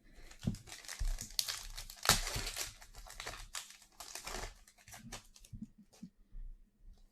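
A foil trading-card pack wrapper being torn open and crinkled by hand. A dense run of crackling and tearing fades to scattered crinkles after about five seconds.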